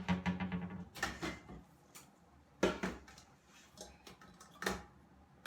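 Kitchen clatter of dishes and utensils being handled and set down on a counter: a quick rattle at the start, then a handful of separate knocks, the loudest about two and a half seconds in.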